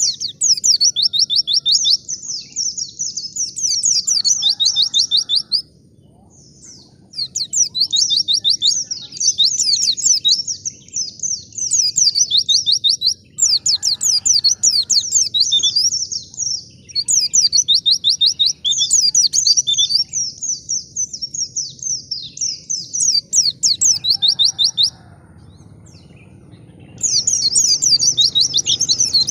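Pleci (white-eye) singing: long, rapid twittering phrases of fast, high down-slurred notes, broken by pauses of a second or two about six seconds in and again near the end.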